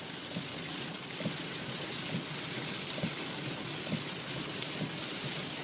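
Steady hiss of rain and wet road noise from a car driving in the rain, with scattered light ticks of drops.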